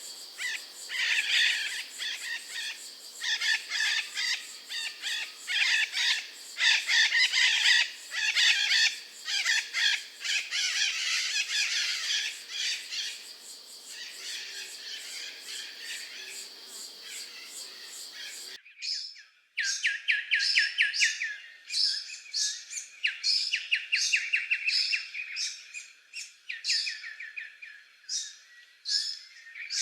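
Wild birds singing and calling in a dense overlapping chorus, with an insect hum underneath. About two-thirds of the way through the sound cuts abruptly to a different bird repeating rapid trills, with sharp high chirps above them.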